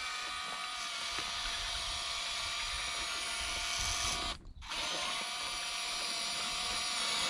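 Electric motors of a Huina V4 radio-controlled model excavator whining steadily under load. They cut out for a moment about four and a half seconds in, then spin back up.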